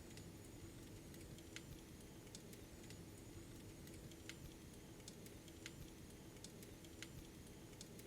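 Faint crackling of a wood fire in a fireplace: sharp, irregular pops about once a second over a steady low hum.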